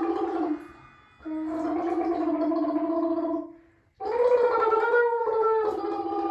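A person making long, held, throaty warbling vocal sounds, three drawn-out notes each a couple of seconds long with short breaks between and a step down in pitch near the end.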